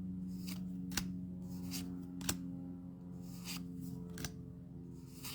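Trading cards being handled and flipped through, with about eight short clicks and swishes, over a steady low electrical hum.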